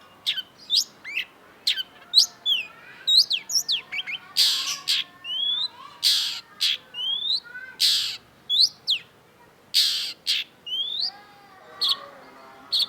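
Long-tailed shrike singing: a quick run of sharp chirps and slurred whistles, broken four times by a harsh, rasping call about half a second long.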